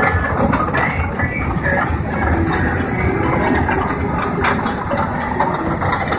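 Steady mechanical rumble of a tractor ride, with continuous rattling and clicking.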